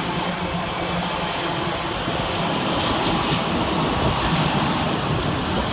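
Class 66 diesel-hauled container freight train passing steadily, its wagons' wheels running on the rails under a steady low hum.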